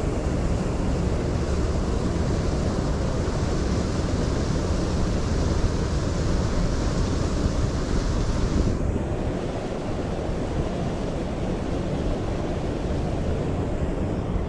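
Steady rush of a mountain stream's flowing water, with wind buffeting the microphone. The higher hiss of the water eases a little about nine seconds in.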